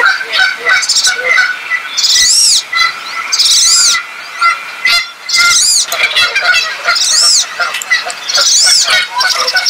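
Birds calling: a loud, high whistled call that rises and falls, repeated every second or two, over many shorter chirps.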